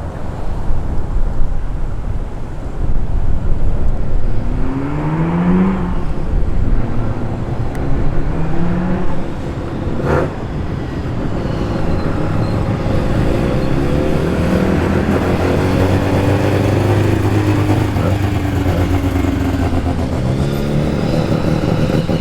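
Mazda RX-3 and RX-7 rotary engines as the cars roll in at low speed, the engine pitch rising briefly a few seconds in and settling into a steady low drone in the second half. A single sharp click about ten seconds in.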